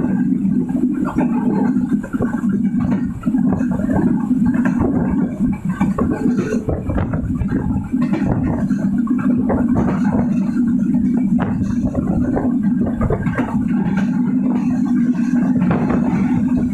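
Passenger train running at speed: a steady rumble with constant rattling and knocking of the carriage.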